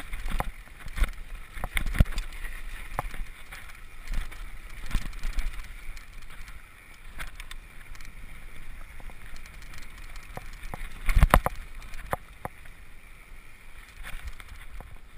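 Mountain bike ridden downhill over a rough, rocky trail: irregular rattles and knocks from the bike over rocks and roots, with steady tyre and rolling noise. A cluster of heavy jolts comes about eleven seconds in.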